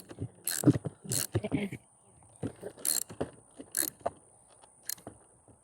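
Socket wrench tightening a skateboard's axle nut against the new wheel: irregular metallic clicks and clatter, one group of strokes roughly every second.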